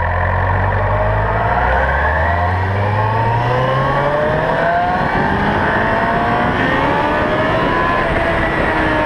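Honda CBR1000RR Fireblade's inline-four engine accelerating hard, its pitch climbing steadily for the first few seconds and then holding high.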